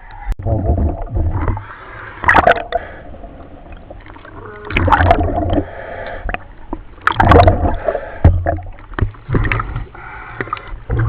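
A diver breathing in a surface-supplied commercial diving helmet, heard over the dive radio: hissing breaths through the demand regulator and gurgling exhaust bubbles, recurring every two to three seconds.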